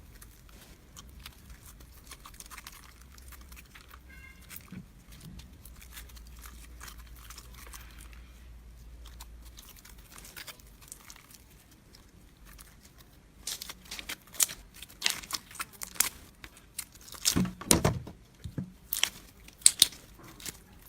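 Hands working a slime, making soft sticky crackles at first and then, from a little past halfway, louder, denser crackling and popping.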